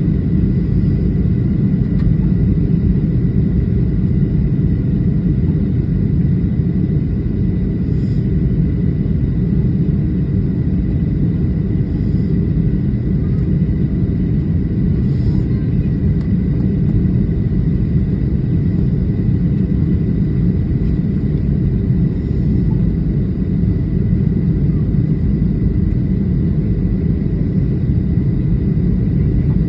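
Airliner cabin noise in flight: a steady, loud low rumble with a thin steady high whine over it, unchanging throughout.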